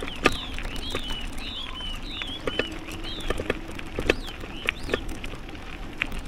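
A bird calling with a series of short, high chirps that slide downward, several to the second at times, over the steady rumble and scattered knocks and clicks of a wheelchair rolling on a gravel path.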